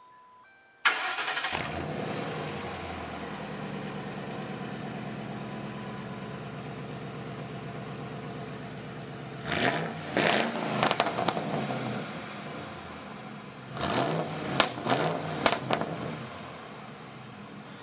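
2008 Mercury Grand Marquis's 4.6-litre V8 starting about a second in and running through straight-pipe dual exhaust with no mufflers or resonators, only the catalytic converters left in. It settles to a fast idle, is revved in two bursts of quick throttle blips about ten and fourteen seconds in, and drops back to idle.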